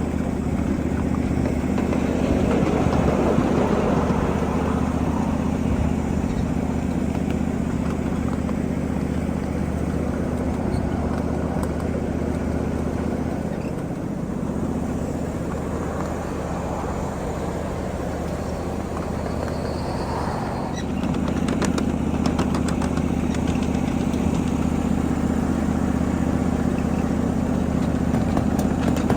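A 7.5-inch gauge ride-on miniature train running steadily under way, its locomotive's engine a steady hum with the rumble of the train rolling along the track. It gets a little louder about two-thirds of the way through, with faint clicks over the last third.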